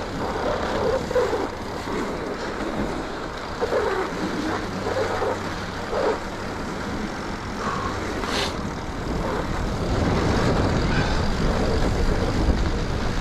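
Steady rumble of a mountain bike ridden over a packed, groomed snow trail, with tyre and wind noise. There is a single sharp click about eight seconds in, and the rumble grows a little louder near the end.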